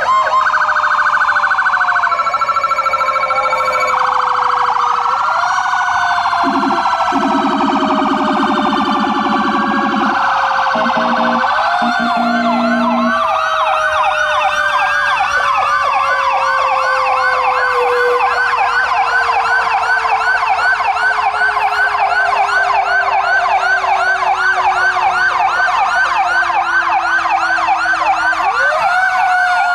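Fire truck sirens sounding together. One deep wail slides slowly down in pitch and rises sharply again near the end, while other sirens wail and then switch to a fast yelp about halfway through. Steady air horn blasts sound over them in the first half.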